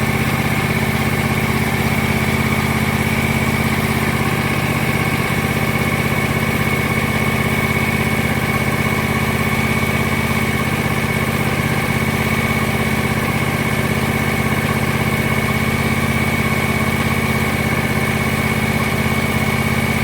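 John Deere X580 lawn tractor's twin-cylinder engine running at a steady idle, with a steady whine on top, just after its first oil change.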